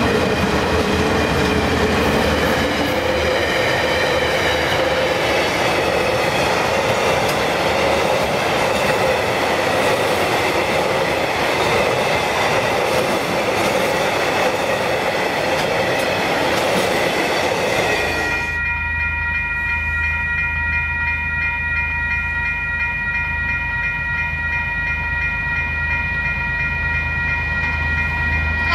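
A diesel-hauled freight train of hopper wagons passes at speed, with a steady rumble and wheel clatter. About 18 seconds in, the sound cuts to a level crossing's warning bells ringing steadily over a low hum, as a train approaches.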